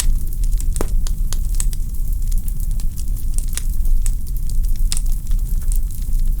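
Log fire in a fireplace crackling, with sharp irregular pops from the burning wood, a strong one about a second in, over a steady low rumble of the flames.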